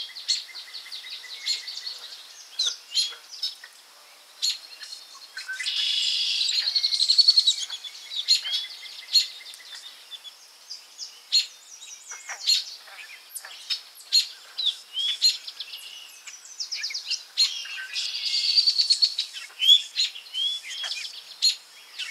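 Forest birds singing: many short high calls throughout, with two longer, denser song phrases about six seconds in and again around eighteen seconds.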